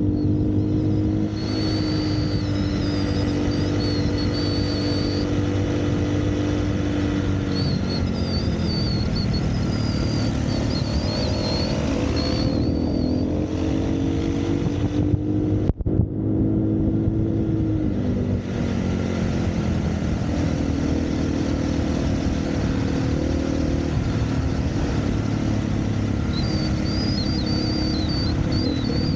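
Single-cylinder four-stroke dirt bike engine running under way on a trail. Its pitch holds steady, then drops and climbs again several times as the throttle and gears change.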